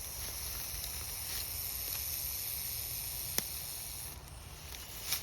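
A snake hissing defensively: a long steady hiss that fades out about four seconds in. One sharp click about three and a half seconds in.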